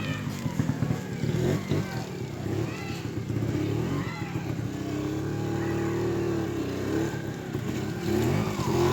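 Trials motorcycle engine running at low revs with uneven throttle blips, held steadier for a couple of seconds midway. Near the end it revs up with its pitch rising.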